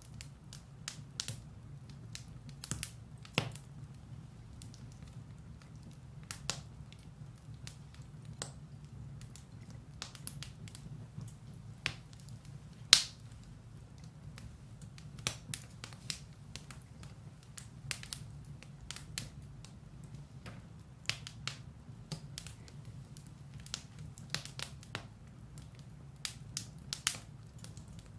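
Firewood burning in a fireplace: irregular sharp crackles and pops, a few loud snaps among many small ones, with the loudest pop about halfway through, over a steady low rumble of the fire.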